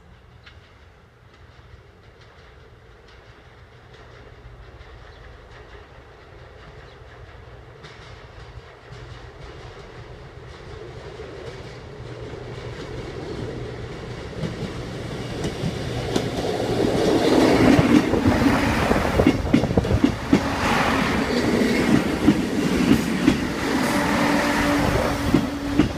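Diesel multiple unit passenger train approaching and then running close past, its engine hum and wheel noise growing steadily louder. Over the second half the wheels clack irregularly over the rail joints.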